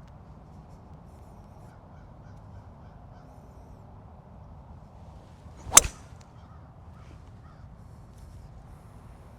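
A golf club striking a ball on the driving range: one sharp, loud crack a little under six seconds in, over a low steady outdoor background.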